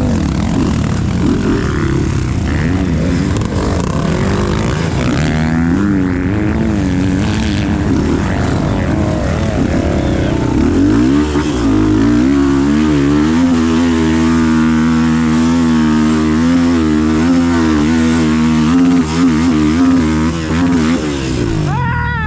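Off-road motorcycle engine running under way over a steady rush of noise. Its pitch climbs about ten seconds in, holds with small rises and falls, and drops near the end.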